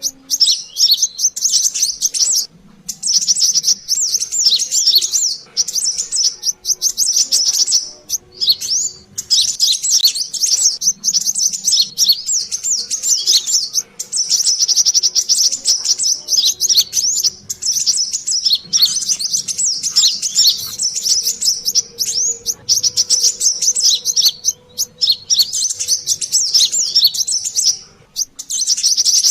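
Brown-throated sunbird (kolibri kelapa) in busy, excited chatter: rapid high chirps in runs of a few seconds, broken by short pauses.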